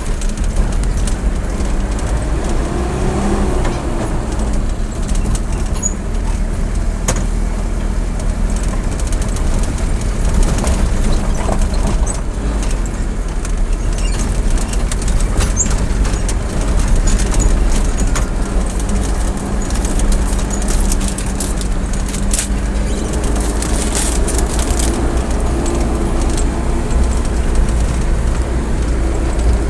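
A motor vehicle on the move, with its engine and road noise as a steady low rumble and a faint engine hum running underneath.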